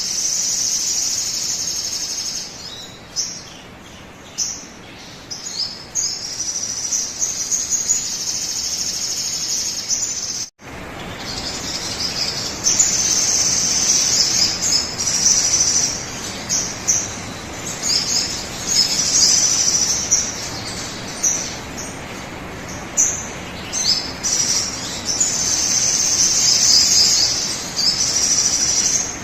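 Sogon bird song, played as a lure recording: a high, dense, continuous trill with short chirps breaking through it. It cuts out about ten seconds in, then starts again.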